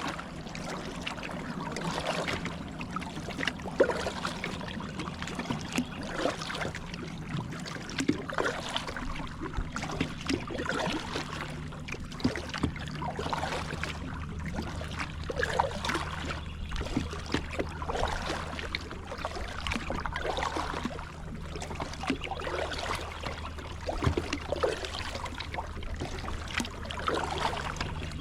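Water splashing and trickling around a Moken 12.5 V2 kayak on a river, with irregular splashes of a paddle in the current, under a faint steady low hum.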